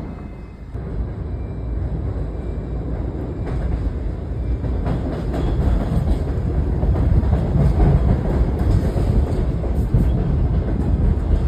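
New York City subway train running on the rails, a low rumble that slowly grows louder, with a few wheel clicks over the rail joints.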